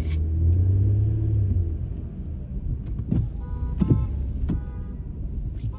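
Inside a moving car on a wet road: a steady low rumble of engine and tyres. A few short knocks and clicks come in the second half.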